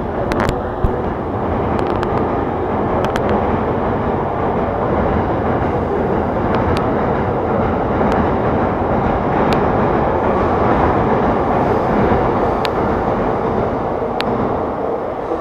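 Electric train noise in the station: a steady, loud rumble, with scattered sharp clicks and knocks.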